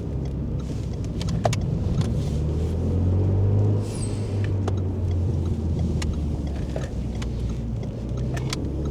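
Renault Mégane III RS's 2.0-litre turbocharged four-cylinder (F4Rt) engine heard from inside the cabin while driving under load, its pitch and loudness climbing for about a second before dropping suddenly about four seconds in with a brief hiss, then running steadily on.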